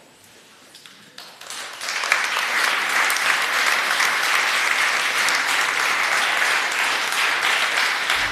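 Audience applauding, building up over the first two seconds and then steady.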